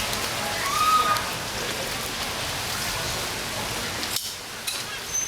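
Steady rain, an even hiss of falling water, with a few light knocks near the end.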